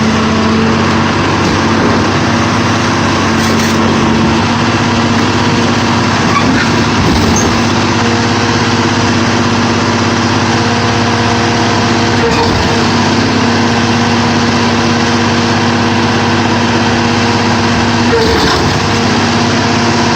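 Sierra 4200 scrap baler's engine and hydraulic power unit running steadily, with three brief knocks spread through.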